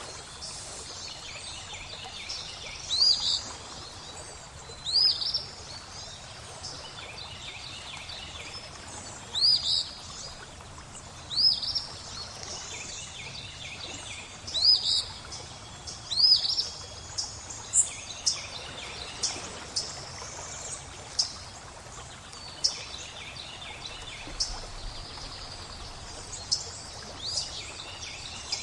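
Flowing water with birds singing over it: a short upward-curving whistled call repeated every two seconds or so through the first half, then quicker, sharper chirps in the second half.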